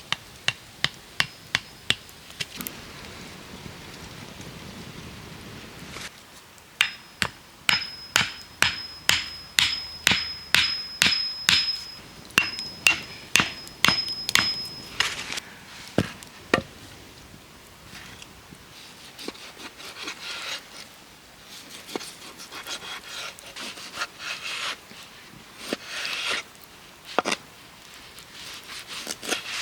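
Repeated blows of a hand tool striking wood: a quick series near the start, then a steady run of about two strikes a second with a high metallic ring, then lighter, scattered knocks toward the end.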